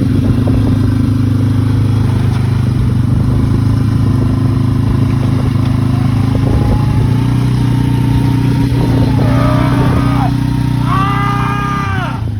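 ATV engine running steadily and loudly at a constant speed. From about halfway a thin higher whine joins it, and near the end a drawn-out pitched call, like a long yell, rises and falls twice before the engine sound drops away.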